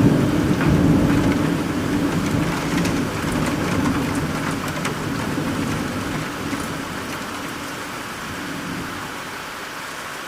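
Steady rain with scattered drops ticking, over a low rumble of thunder that slowly dies away, the whole sound gradually getting quieter.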